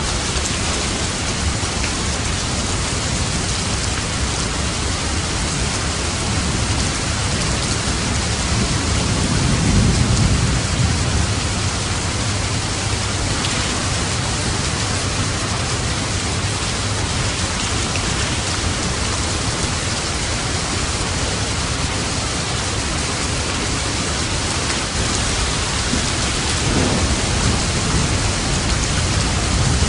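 Steady rain falling, with low rolls of light thunder: one swelling about a third of the way in and another near the end.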